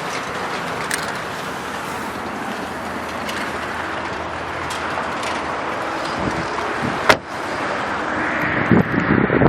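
Steady outdoor wind and traffic-like noise on the microphone, with a single sharp click about seven seconds in and a few fainter clicks earlier.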